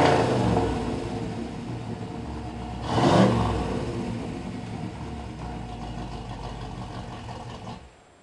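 1986 Chevrolet Camaro's 305 cubic-inch V8 through a 3-inch Flowmaster exhaust, falling back from a rev to idle. It is blipped once about three seconds in, then idles until the sound stops abruptly near the end.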